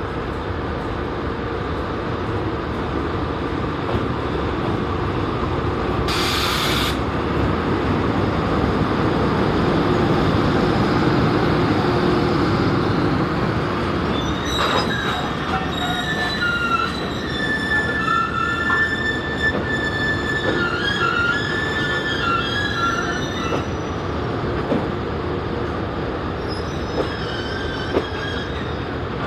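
Freight train rolling through with a steady rumble. About halfway through, its wheels squeal in several high tones for around ten seconds, with another brief squeal near the end. A short hiss comes about six seconds in.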